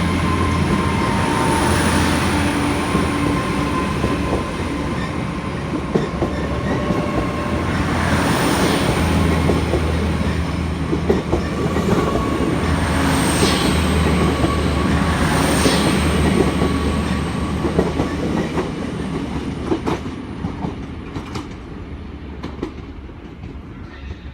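A train running through the station: a steady engine and traction hum with a faint high whine, and wheels clicking over rail joints. It fades away over the last few seconds.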